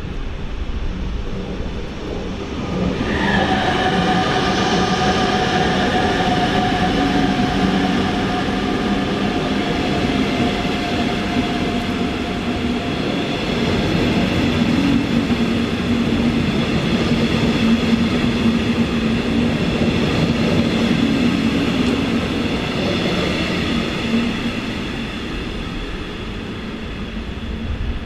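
A train running at a station platform: a rumble with steady whining tones that set in about three seconds in and fade near the end.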